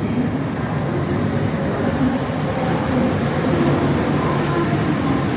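Shinkansen bullet train moving along the station platform, its wheels and motors making a steady, loud running noise.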